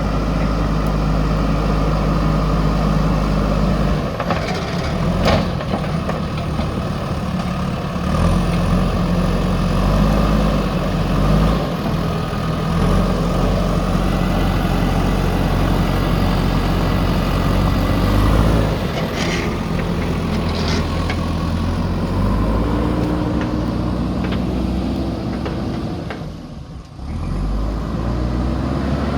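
Diesel engine of a JCB earthmoving machine running under changing load, its engine speed stepping up and down several times, with a few sharp metallic knocks along the way and a brief dip in level near the end.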